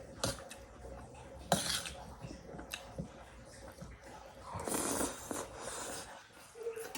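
Close-up eating sounds: a few sharp clinks against a plate and chewing, with a longer noisy stretch of eating about five seconds in.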